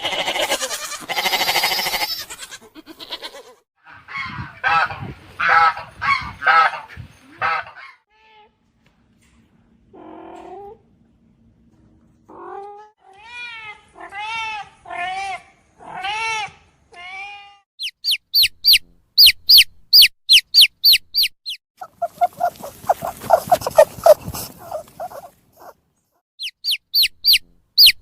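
A sequence of different animal calls with abrupt changes between them. Harsh repeated calls come first, then a run of pitched calls, and from about two-thirds of the way in, rapid high-pitched repeated chirps alternate with a buzzing call.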